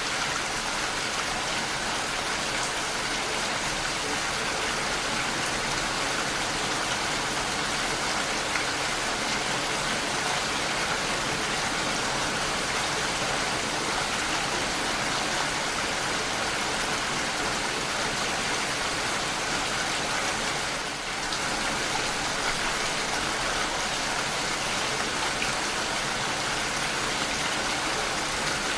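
Steady rain, an even hiss of falling drops with no thunder, dipping briefly about two-thirds of the way through.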